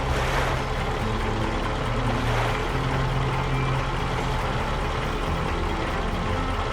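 Heavy construction-vehicle engine running steadily, a constant low hum under an even engine noise.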